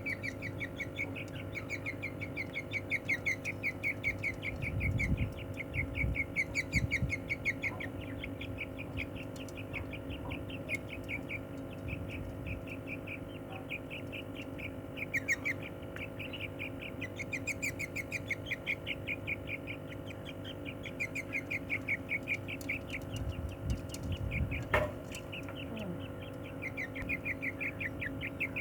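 Budgerigar chicks calling in long runs of rapid, evenly repeated high chirps while they are handled. Dull handling thumps come twice, with a sharp click near the end.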